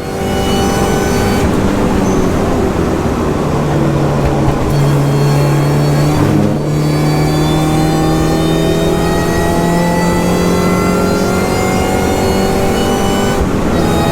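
Mini race car's four-cylinder engine at full throttle, heard loud from inside the cabin. Its pitch climbs steadily through the revs, broken by short dips at upshifts about a second and a half in, around six and a half seconds in, and near the end.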